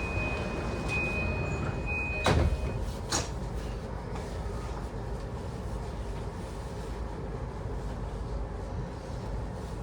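Train passenger doors closing at a station stop: a steady high warning tone sounds, the sliding doors shut with a loud thump a little over two seconds in, and a sharp click follows about a second later. Underneath is the steady low hum of the standing E235-series electric train.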